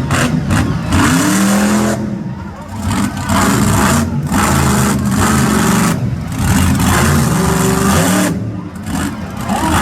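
Monster truck engine revving hard, its pitch rising and falling as the throttle is worked, with short drops between the bursts of power.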